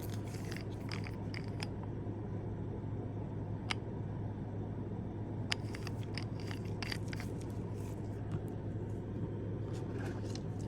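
Scattered small clicks and scrapes of nail polish bottles and packaging being handled, over a steady low hum.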